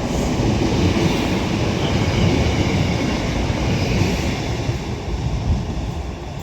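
Northern Class 156 diesel multiple unit passing through a station without stopping: a steady, loud rumble of engine and wheels on the rails.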